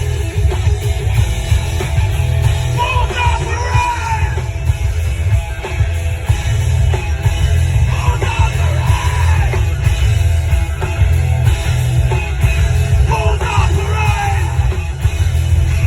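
Loud rock music with shouted, yelled vocals over a heavy bass line, played by a live band.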